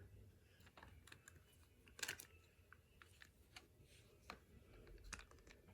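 Faint, irregular clicks and taps from work on small plastic toy parts, with a sharper click about two seconds in and another a little after four seconds.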